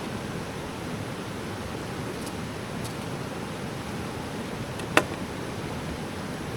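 Steady rushing of river water, with a few faint ticks and one sharp crack about five seconds in.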